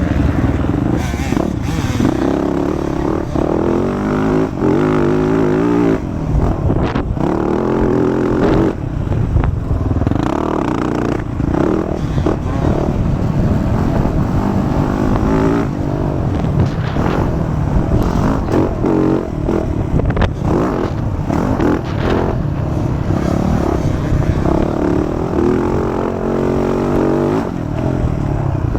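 Motocross dirt bike engine revving hard and easing off again and again, its pitch rising and falling with the throttle and gear changes.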